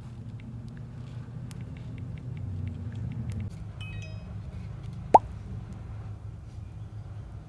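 A short, sharp rising pop about five seconds in, the kind of bubble-pop sound effect edited into vlogs, over a steady low rumble with scattered light clicks.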